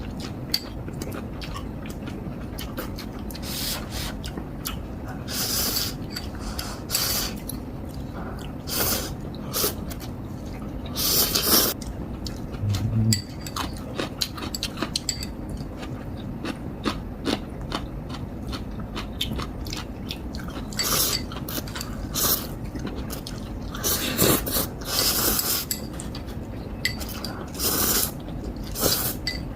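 Close-up eating sounds of instant ramen: noodles slurped in short bursts again and again, with chewing and small clicks of utensils against the bowl.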